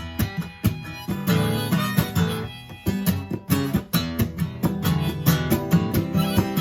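Acoustic guitar strummed in a steady rhythm with a harmonica playing over it: an instrumental break in a folk-blues song.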